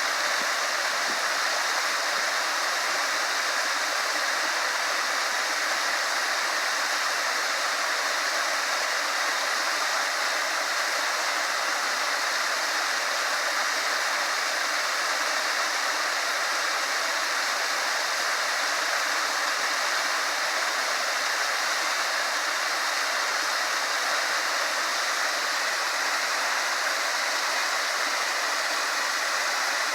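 Small waterfall pouring into a lake, a steady, unbroken rush of falling water.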